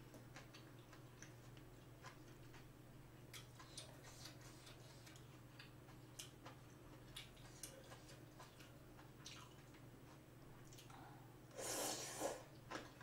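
Quiet chewing and wet mouth clicks of someone eating spicy braised shellfish with bean sprouts, with a brief louder slurp near the end.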